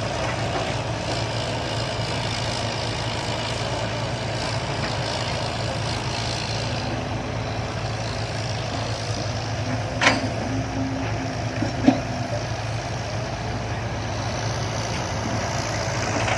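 Heavy diesel machinery running steadily at a low, even hum, with two short sharp knocks about ten and twelve seconds in.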